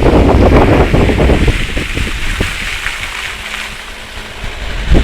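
Strong wind buffeting the microphone over the hiss of surf; the buffeting eases after about a second and a half, leaving mostly the wash of waves, with a brief gust near the end.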